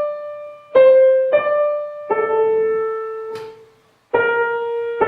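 Piano playing a slow, calm melody: single notes struck roughly every half second to a second, each left to ring and fade, with a brief pause about four seconds in before the playing resumes.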